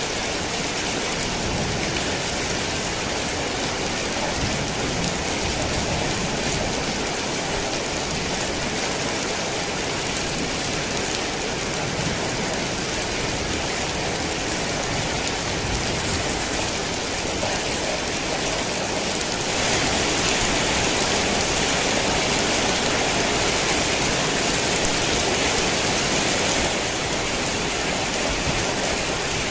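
Heavy rain falling, a steady dense hiss of drops on surfaces. It grows a little louder about two-thirds of the way through, then eases back near the end.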